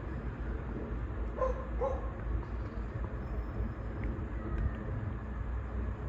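Class 197 diesel multiple unit running at the platform, a steady low rumble. Two short high yelps come close together about a second and a half in.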